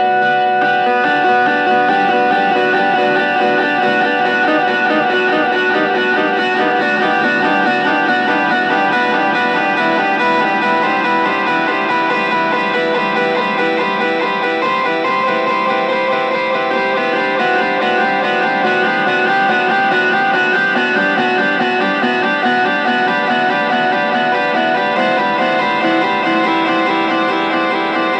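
Electric guitar, a Fender Telecaster, played through a Boss DD-3 digital delay pedal. Its repeats pile up into a dense, steady wash of held, overlapping tones.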